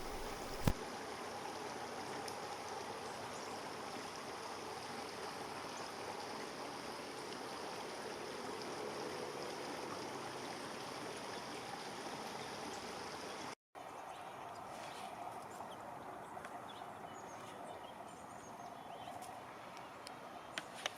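Steady rushing outdoor ambience like running water from a stream. It cuts out completely for a moment about 13 seconds in, then returns slightly quieter with a few faint ticks.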